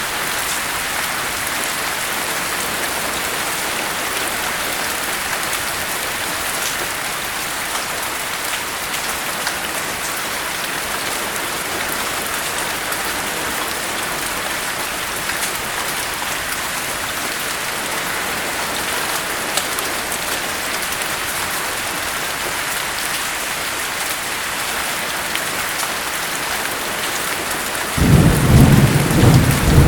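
Steady heavy rain hissing. Near the end, thunder breaks in suddenly as a loud, low rumble.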